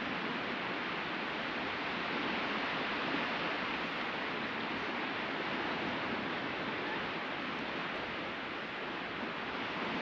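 Ocean surf washing ashore in a steady rush, swelling slightly a couple of seconds in.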